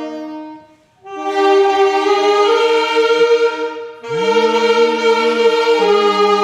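Church choir anthem music: sustained chords held and then released, with a short break about a second in and a new chord about four seconds in.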